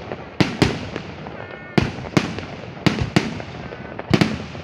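Aerial fireworks shells bursting overhead: about eight loud bangs, mostly in close pairs, each trailing off in a rumbling echo.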